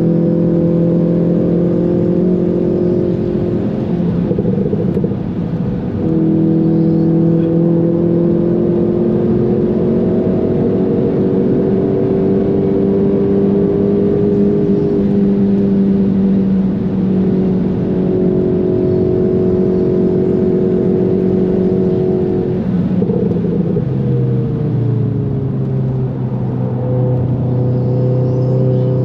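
VW Golf 7 GTI's turbocharged 2.0-litre four-cylinder engine under hard acceleration, heard from inside the cabin. It pulls up in pitch with an upshift about five seconds in, keeps climbing, then its note falls away after about 23 seconds as the car slows.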